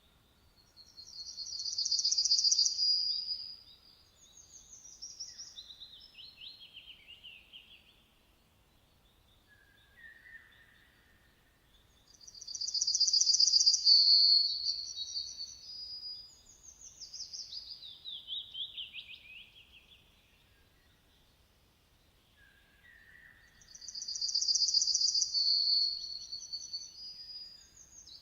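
A songbird singing three phrases about eleven seconds apart. Each phrase is a high, fast trill followed by a run of notes sliding downward, with a short lower note before the second and third phrases.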